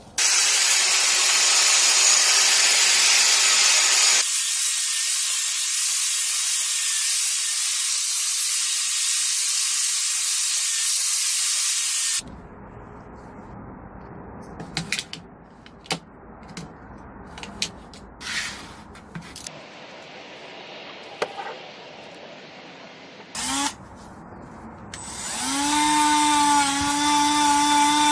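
Workshop tool sounds in three parts: a loud steady hiss for about twelve seconds, then scattered clicks and knocks, then a small electric motor whining steadily near the end.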